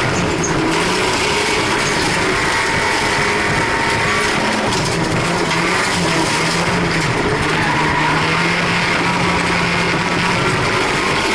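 Folkrace car's engine running hard, heard from inside the stripped cabin, its pitch dropping and climbing again several times, then holding steady for a few seconds, over a constant loud rush of noise.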